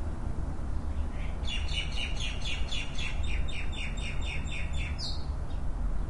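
A songbird singing a quick series of repeated notes, about three a second, for about three and a half seconds before stopping, over a steady low rumble.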